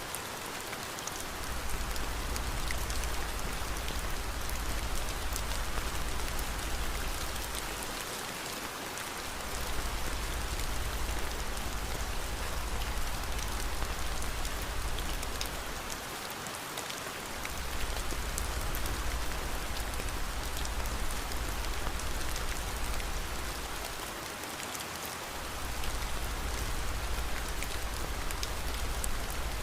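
Steady rain falling, with a deep low rumble underneath that drops out for about a second roughly every eight seconds.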